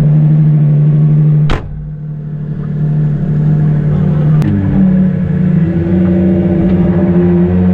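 Ferrari FXX K's V12 idling steadily in neutral. A sharp click about a second and a half in is followed by a drop in loudness that slowly builds back, and at a second click a few seconds later the idle note steps up.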